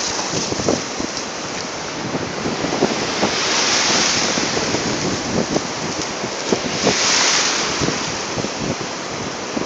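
Ocean waves breaking and washing up the beach, swelling twice, with wind buffeting the microphone.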